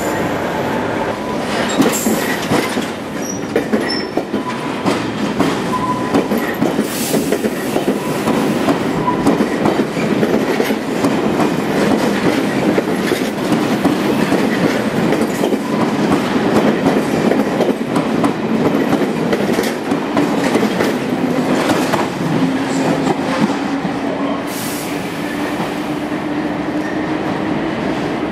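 London Underground train running past close by, wheels clattering over the rail joints with some squeal. A low whine rises slightly over the last several seconds.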